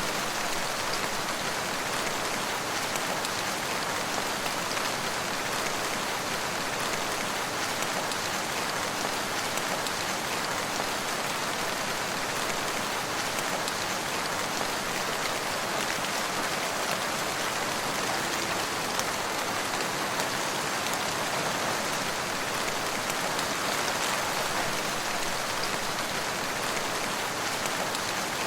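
Steady rain falling, an even hiss with a few single drops standing out now and then.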